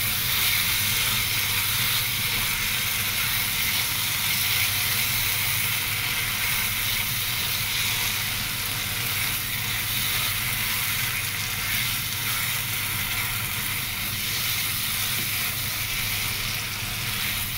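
Onion, green chilli and spice masala sizzling steadily in hot oil in a pan while it is stirred, with dried chilli powder being worked in.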